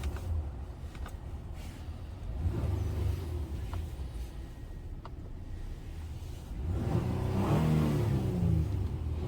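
2021 Honda Ridgeline's V6 engine running with a low rumble, swelling louder and revving up about seven seconds in, with a few light clicks.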